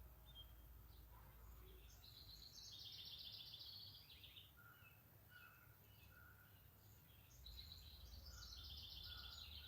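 A songbird singing faintly: two fast trilled phrases about five seconds apart, with short soft notes in between, over a low outdoor rumble.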